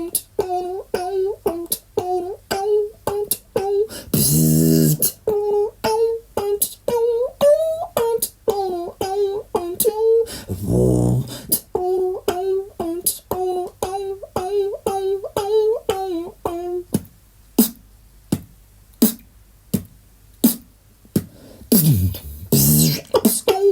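Solo vocal beatbox: a steady rhythm of sharp mouth clicks and percussion with a hummed melody over it, and deep bass drops twice. Later it thins to sparse clicks before building up again near the end.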